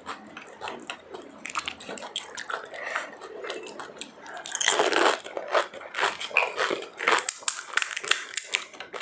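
A person chewing and crunching food close to the microphone, with a rapid run of wet mouth clicks and crackles and a louder crunchy stretch about five seconds in.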